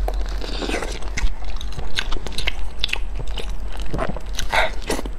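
A person biting and chewing meat up close: a run of irregular wet mouth clicks and smacks over a steady low hum.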